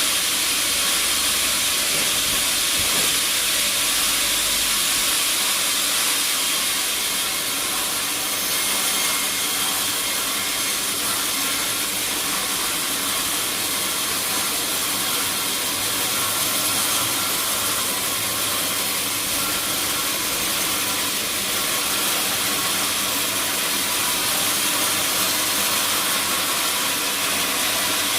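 Sawmill saw cutting through a teak log: a steady hissing noise that runs on without a break.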